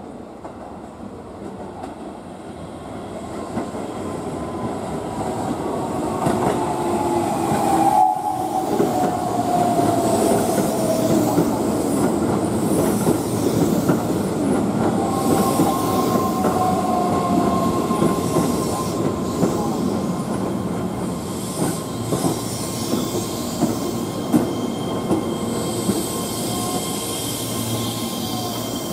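Keihan 10000-series electric train pulling into the station and slowing, its motor whine falling in pitch as it brakes, over wheels clacking on the rail joints. Growing louder as it approaches, then a steady high squeal joins in the second half as it runs along the platform.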